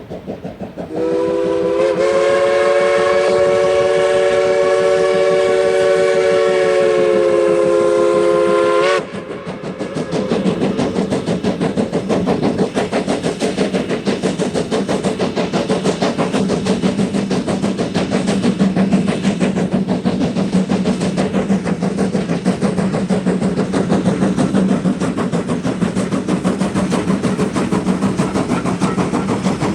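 Steam locomotive whistle blowing one long chord of several notes for about eight seconds, then cutting off sharply. After it comes the steady rumble of the steam train running.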